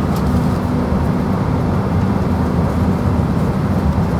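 Steady low drone of a Boeing 767-300ER's cabin at the gate before engine start: the air-conditioning running, an even rumble with a low hum under it.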